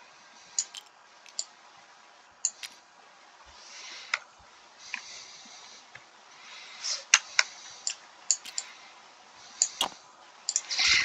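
Small plastic game pieces clicking as they are picked up and set down on a board, a dozen or so separate clicks with a few soft rustles between them.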